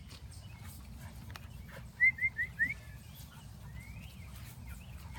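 A small bird calling: four quick rising chirps in a row about two seconds in, then a single fainter rising note, over a steady faint low rumble.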